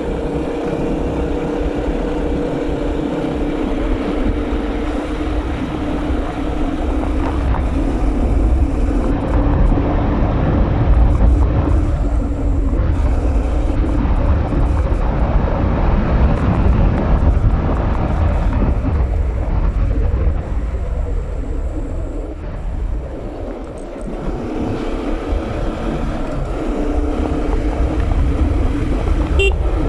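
Bajaj Pulsar NS200 motorcycle engine running steadily while the bike is ridden, under heavy wind buffeting on the microphone.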